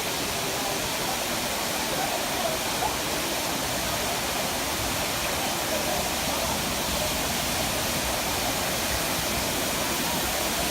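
Waterfall rushing steadily, a constant even roar of falling water; the flow is getting stronger.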